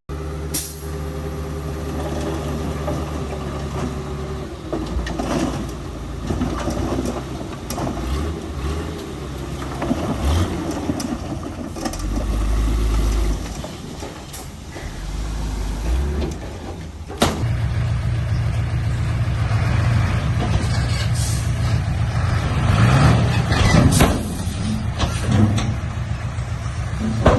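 Heavy diesel engine running and changing speed under load, with scattered sharp clicks and knocks. About seventeen seconds in there is a sharp crack, after which the engine runs louder.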